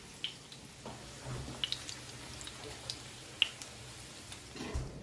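Chicken pieces frying in hot oil in a frying pan: a low sizzle with scattered short spitting pops.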